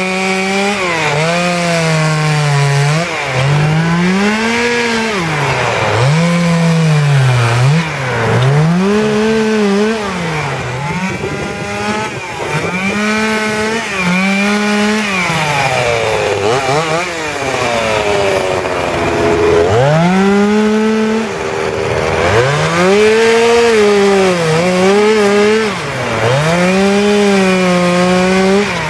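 Petrol chainsaw carving wood, its engine revving up and falling back over and over, about every one to two seconds.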